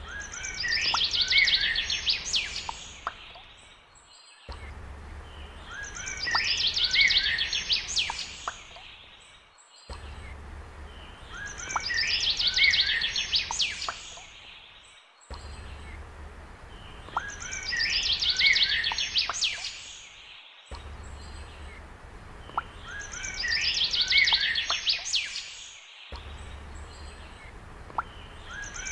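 Bird song in short bursts of fast high trills and whistled notes, looped as a ringtone: the same phrase comes back five times, about every five and a half seconds. A faint low hum sits under the start of each repeat.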